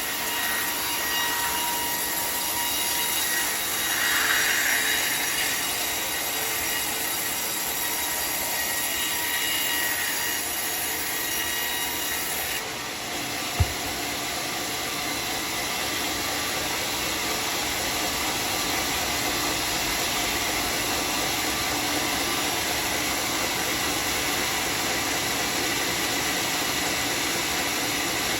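Homemade sawmill saw running steadily while cutting a teak log, with a brief squeal of the blade about four seconds in and a single sharp click about halfway through.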